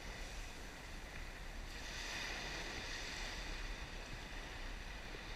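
Steady wash of surf and rain, with a low wind rumble on the camera's microphone; the hiss grows a little brighter about two seconds in.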